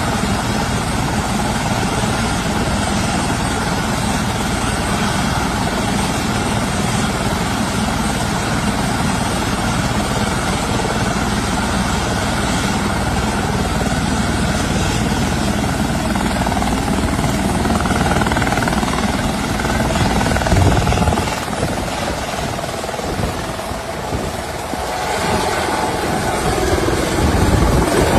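Helicopter running: a loud, steady rotor and engine noise that becomes more uneven about twenty seconds in.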